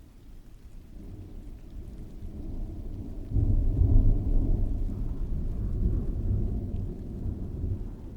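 A roll of thunder that swells up, breaks into a loud low rumble about three seconds in, then rolls on and eases away near the end, over steady rain.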